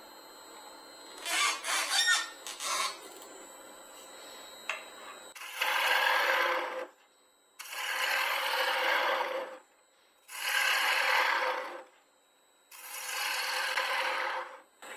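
Woodturning tool working the wood of a small bowl on the lathe: a few short scrapes, then four long scraping strokes of one to two seconds each, with brief near-silent gaps between them.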